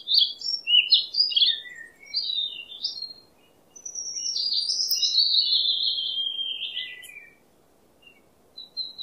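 A songbird singing: a run of quick high chirps, then one longer warbling phrase from about four to seven seconds in, and a few more chirps near the end.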